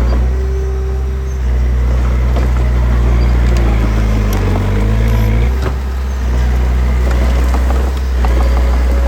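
Heavy machinery diesel engine running steadily, its note dipping and shifting between about four and five and a half seconds in, with light metallic clanks scattered throughout.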